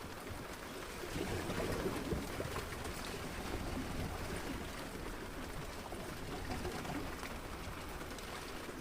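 Sea water sloshing and splashing against a small fishing boat, a steady, irregular rush of water noise.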